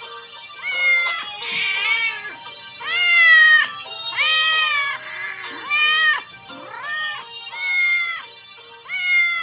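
A cat meowing over and over, about eight drawn-out meows roughly one a second, each rising then falling in pitch, over background music.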